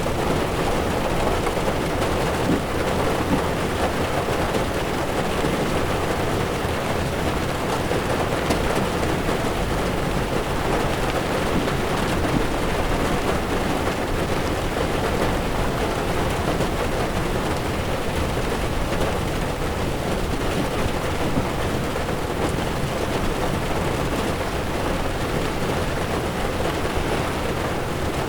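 Heavy rain drumming on a car's windshield and roof, with tyres rolling over a wet road and a low road rumble, heard from inside the car. It stays steady throughout.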